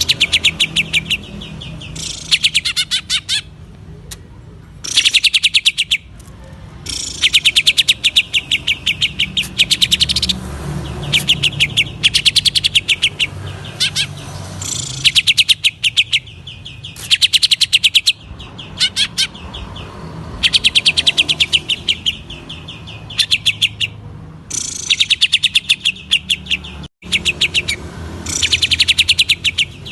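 A green leafbird (cucak ijo) singing in rapid bouts of sharp, fast-repeated chattering notes, each bout a second or two long, with short breaks between. This is the fast 'ngentrok' delivery of a bird in full song.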